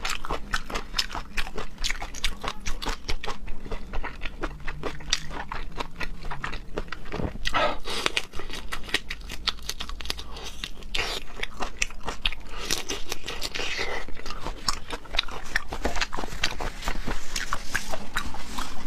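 Close-miked chewing and biting of raw seafood: a steady stream of small wet crunching clicks, thickening into denser mouth noise a few times.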